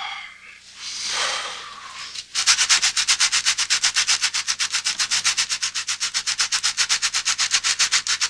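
A drawn-out groan, then fast, even scratching, fingernails scraping back and forth at about eight strokes a second, starting about two seconds in and lasting some six seconds.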